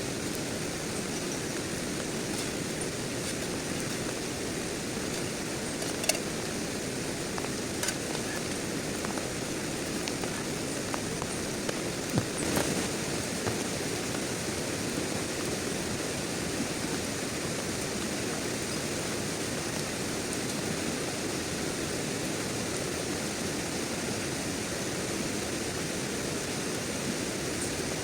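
Heavy rain falling, a steady even hiss, with a few sharp ticks of drops or taps about six, eight and twelve seconds in.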